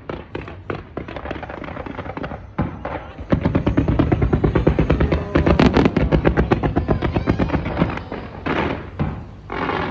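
A fireworks display going off in a dense, rapid barrage of crackling bangs, louder and thicker from about three seconds in, with music playing along.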